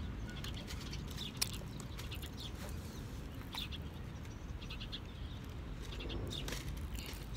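A few faint, short bird calls over a steady outdoor background hum, with a single sharp click about a second and a half in.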